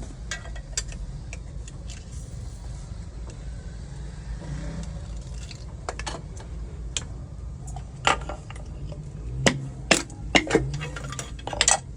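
Metal clinking and knocking from hand work on a diesel engine block during a sleeve replacement, scattered light taps with a cluster of sharper strikes in the second half, over a steady low hum.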